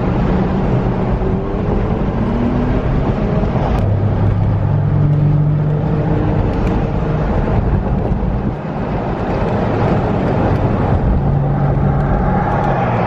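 Cars driving at speed: steady road and engine noise. One engine's note rises a couple of seconds in, then holds steady for a few seconds.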